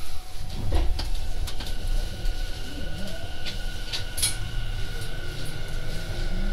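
Tobu 50070-series electric train heard onboard: a steady low rumble with a thin, steady high tone joining about a second and a half in, and a few light clicks.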